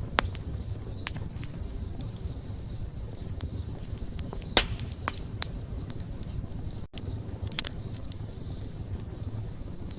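Wood campfire crackling: scattered sharp pops and snaps over a steady low rumble of flames, with the loudest pop about halfway through.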